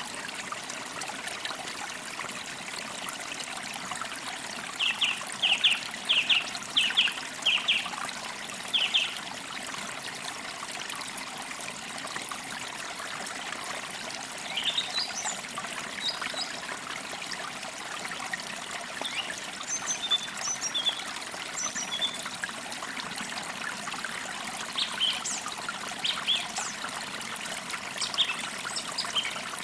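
A stream trickling steadily, with woodland birds calling over it: a run of short, quick chirps from about five to nine seconds in, then scattered higher chirps through the second half.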